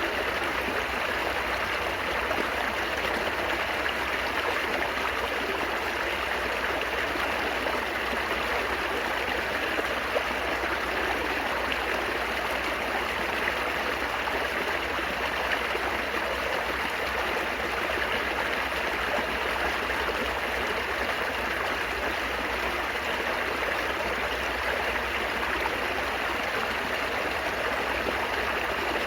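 Water running and babbling steadily over rocks, a small stream flowing without a break.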